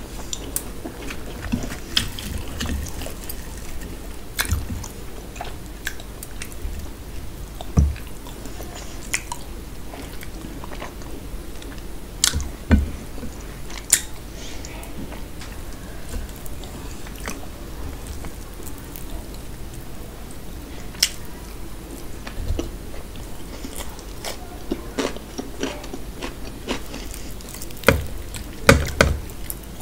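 Close-miked chewing and biting as a person eats mutton curry and puri by hand, with irregular sharp mouth clicks, a few louder ones near the end.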